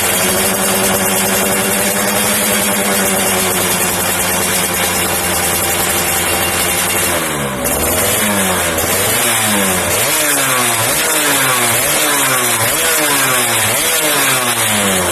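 Yamaha F1ZR's two-stroke single-cylinder engine through an RTX racing exhaust, held at a steady rev for about seven seconds, then revved up and down repeatedly, about once a second.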